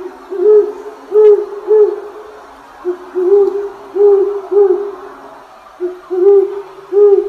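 Owl hooting: short, rounded low hoots, mostly in twos and threes about half a second apart, over a faint steady drone.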